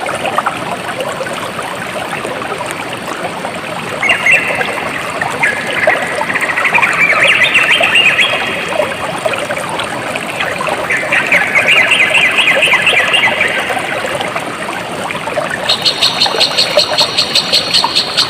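Water trickling and flowing steadily, with rapid pulsed animal trills over it: two stretches in the first three-quarters, then a higher, faster trill starting near the end.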